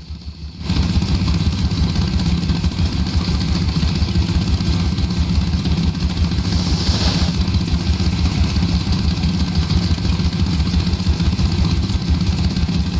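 Gasoline engine of an old log splitter starting abruptly about a second in and running steadily with a low rumble. A brief hiss a little past halfway.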